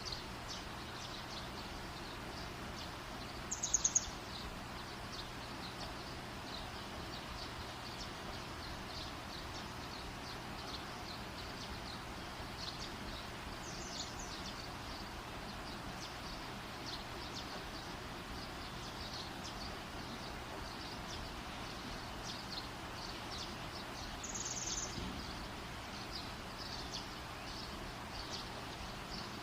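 Steady hiss of an outdoor campfire under many faint, rapid high chirps. Three louder clusters of quick falling chirps come about ten seconds apart; the first, about four seconds in, is the loudest.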